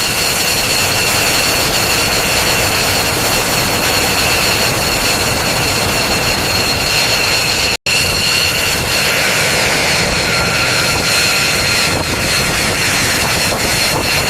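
Jet aircraft engine running steadily: a broad rushing noise with two high, steady whining tones. The sound drops out abruptly for an instant about eight seconds in.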